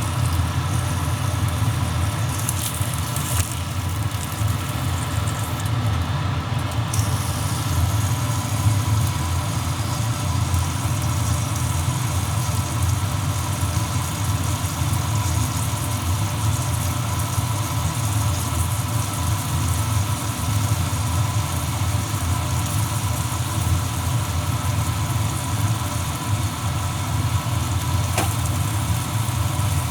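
A steady, low machine hum with a few faint steady tones above it, and one faint click near the end.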